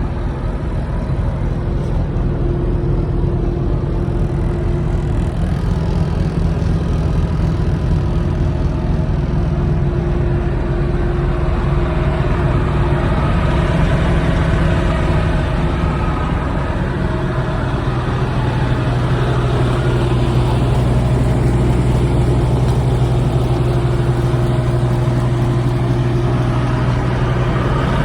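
A refrigerated truck's engine runs steadily, its deep note shifting pitch a couple of times.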